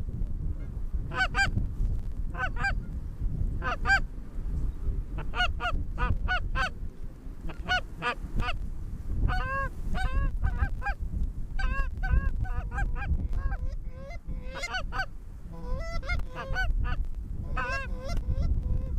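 Goose honking: many short honks and clucks in quick runs, one after another, over a steady low rumble.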